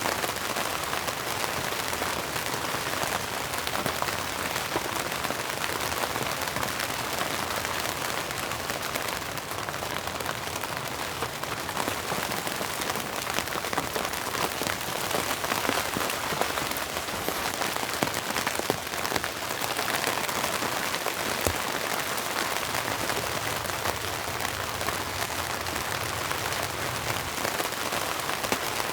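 Steady rain, with frequent sharp ticks of single drops striking close by.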